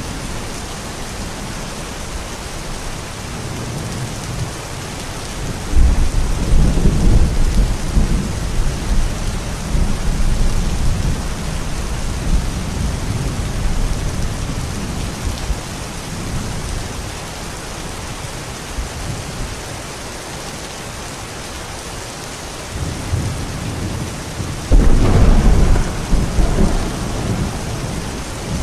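Steady rain falling, with two long rolls of thunder: one about six seconds in that fades over several seconds, and a sharper one near the end.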